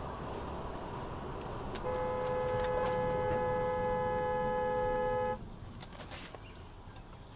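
Car horn held for about three and a half seconds as one steady tone, starting about two seconds in and cutting off abruptly, over steady road and engine noise.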